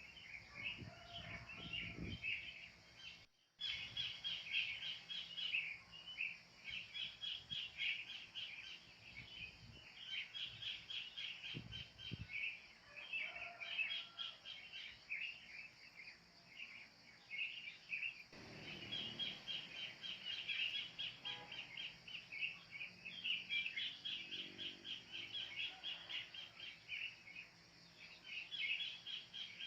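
Many wild birds chirping and calling without pause, a dense chorus of quick, high notes, broken once by a short gap about three seconds in.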